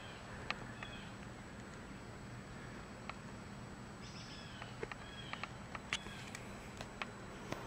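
Faint woodland ambience: a bird giving short chirping calls several times over a steady low hiss, with a few light clicks.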